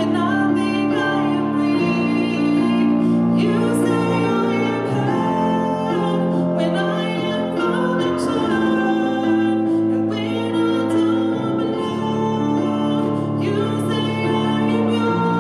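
A woman singing a slow song with keyboard accompaniment.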